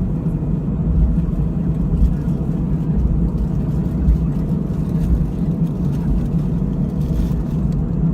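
Steady low rumble inside the cabin of an Airbus A320-214 taxiing after landing: engines at idle and the undercarriage rolling along the taxiway.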